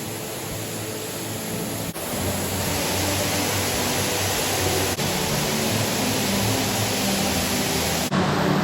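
A steady rushing noise that grows louder and brighter after a cut about two seconds in, with sudden jumps at further cuts near five and eight seconds.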